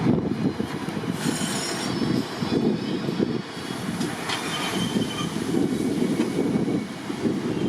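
Train running along the rails, a steady rumble with brief high-pitched wheel squeals about a second in and again around four seconds in.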